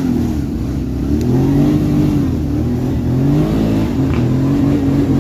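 Off-road trail motorcycle engine revving hard, its pitch rising and falling about four times in quick succession.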